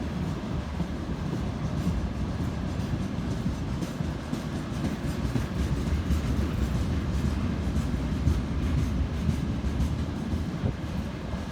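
Train cars rolling past on the rails: a steady low rumble, with wheels clicking over the rail joints.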